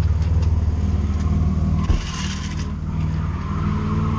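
Drift car engine running steadily, with one heavy thump about two seconds in.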